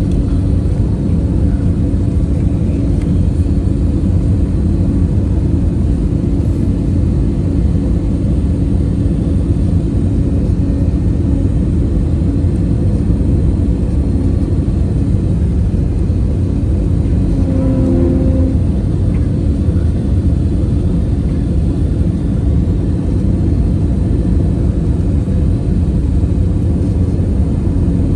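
Airliner cabin noise heard from a passenger seat on the landing approach: a steady engine and airflow rumble with a faint constant hum, and brief higher tones about seventeen seconds in.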